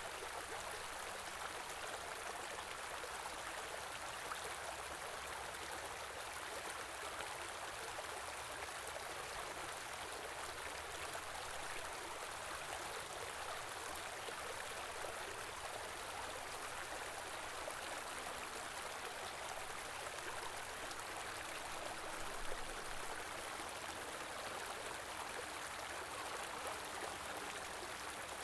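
A small river flowing: a steady, even rush of running water.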